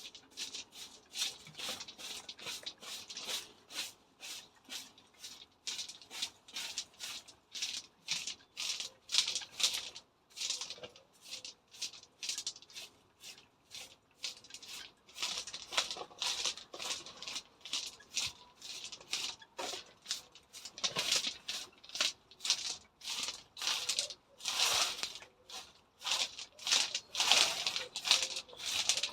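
Quick, repeated rustling and scratching strokes in dry garden vegetation, about two or three a second, getting louder in the last few seconds.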